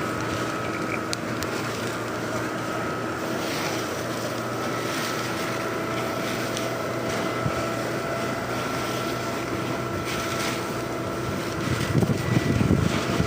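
Steady hum of a running vehicle engine, with a few constant tones over a noisy rush. Wind buffets the microphone in low gusts near the end.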